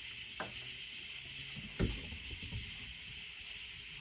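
A few knocks on wood over a steady high hiss: a light one about half a second in, a louder thump near two seconds, then a few small clicks.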